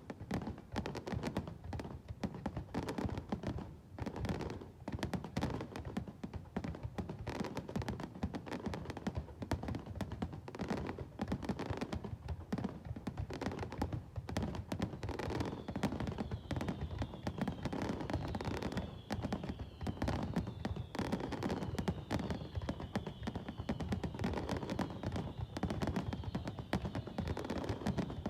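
Fireworks going off in a rapid, dense crackle of sharp pops and bangs. A high whistling tone with repeated falling glides joins about halfway through.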